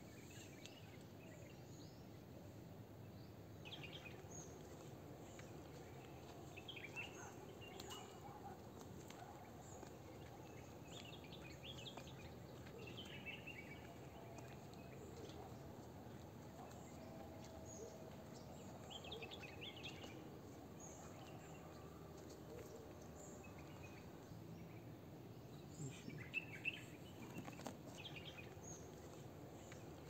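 Faint chirps of small birds at intervals over steady low outdoor background noise, with a few sharp clicks near the end.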